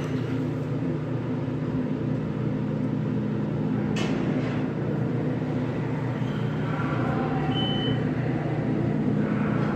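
Steady low mechanical hum of an underground rail station. A sharp click comes about four seconds in, and a short high beep near eight seconds.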